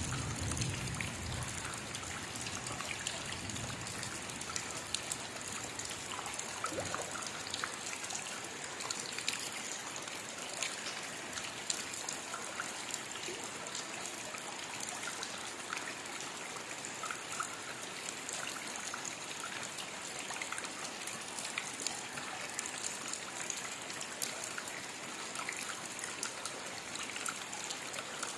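Steady rainfall, a constant hiss with many separate drop hits, and a low rumble in the first few seconds.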